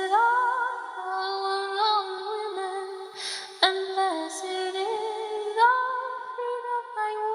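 Music: a woman singing long, gliding notes in a slow melody.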